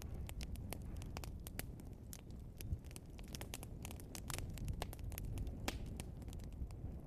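Wood fire burning in a fireplace: logs crackling with many irregular sharp snaps and pops over a low, steady rumble of the flames, with one louder pop a little under three seconds in.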